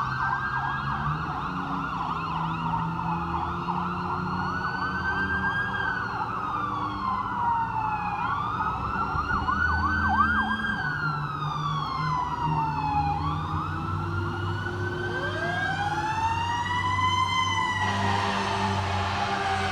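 Fire engine and ladder truck sirens sounding together as they respond: electronic wails rise and fall every few seconds, with stretches of fast yelping. A lower siren climbs slowly near the end, over the rumble of the trucks' engines.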